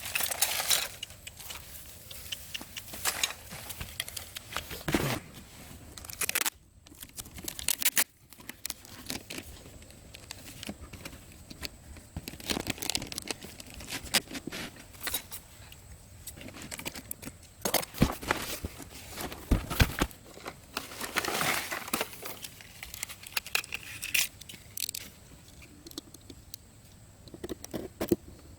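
Irregular crinkling, tearing and scraping, broken by sharp clicks and knocks, the sound of materials being handled and worked by hand.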